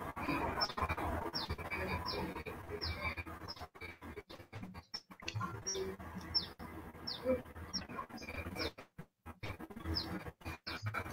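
Short high chirps, each falling in pitch, repeating about every two-thirds of a second over a faint rustling room noise that cuts out briefly in places.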